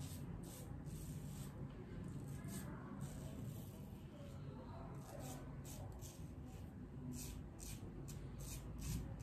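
Fatip double-edge safety razor with a Gillette Stainless blade scraping through lathered stubble on the cheek and jaw: a series of short, faint rasping strokes, a few in the first three seconds and a quicker run over the last four, in the across-the-grain pass.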